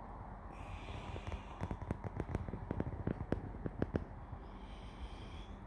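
A quick run of irregular sharp clicks and knocks over a steady low rumble.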